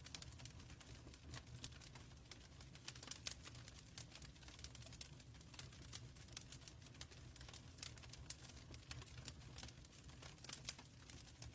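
Wood fire burning in a fireplace: quick, irregular crackles and pops over a faint low rumble.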